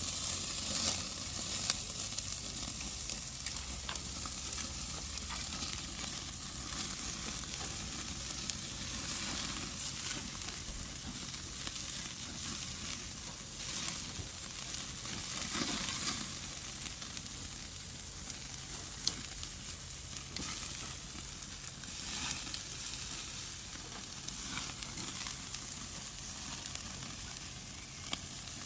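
Black pork belly sizzling on a grill over a hot wood fire: a steady hiss with scattered small pops.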